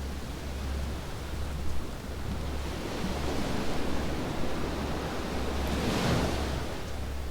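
Ocean waves washing onto a sandy beach, one wave swelling and breaking about six seconds in, over a steady low rumble.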